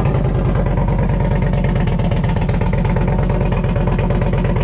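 Indian Challenger's V-twin running at a steady idle through a freshly fitted TAB Performance 2-into-1 cat-delete exhaust with a Zombie baffle, loud and even with no revving.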